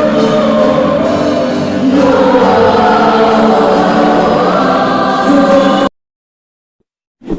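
Choral church music, a choir singing over accompaniment, that cuts off abruptly about six seconds in. A short thump near the end.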